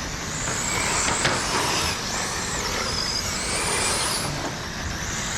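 Electric RC dirt-oval race cars running on the track, several high-pitched motor whines rising and falling in pitch as the cars speed up and slow down, over a steady rushing noise.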